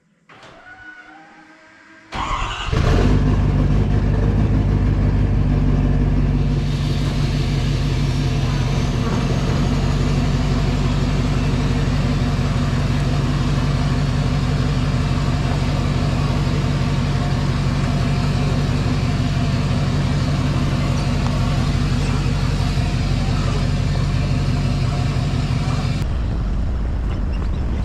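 A motor vehicle's engine running steadily, coming in suddenly about two seconds in and changing to a rougher, noisier sound near the end.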